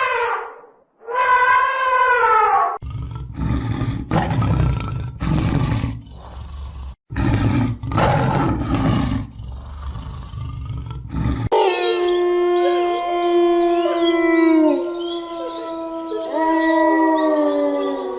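A big cat roaring, a run of deep rough roars in quick succession, after two falling wailing calls. From about twelve seconds in, several animals howl together, overlapping steady tones that slide down in pitch.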